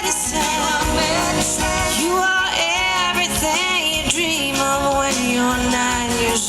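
A woman singing long held, wavering notes over steady band accompaniment.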